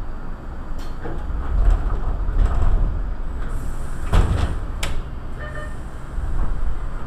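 Iyo Railway commuter train heard from the front cab: a steady low rumble, broken by a few sharp clicks and a single heavy thump about four seconds in, with a brief hiss just before it.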